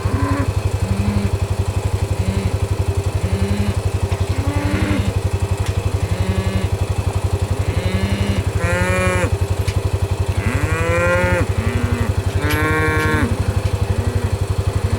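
A herd of Angus beef cows mooing, many calls overlapping, short low moos at first and longer, louder bawling calls from about halfway on. Under them an engine chugs steadily.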